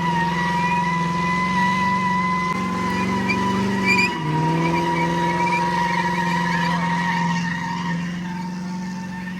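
Car engine held at high revs while its tyres spin and squeal in a burnout. The engine note steps up about two and a half seconds in and drops back about four seconds in, then holds steady.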